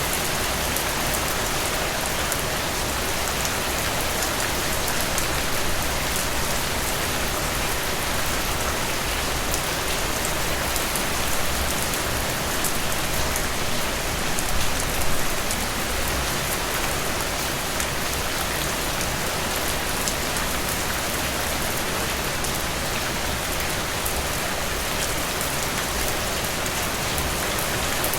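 Heavy rain falling steadily, a dense even hiss of drops striking surfaces, with a couple of brief louder patches in the middle.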